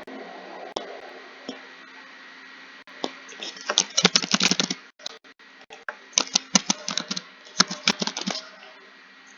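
Computer keyboard typing: a few scattered keystrokes, then two quick runs of rapid key clicks with a short pause between them, over a faint steady hum.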